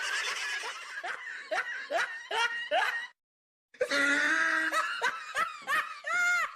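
Laughter sound effect: a run of short, quick laughs that cuts off about three seconds in. After a brief silence a second comic vocal effect starts, a held voiced note followed by quick, squeaky, laugh-like bursts.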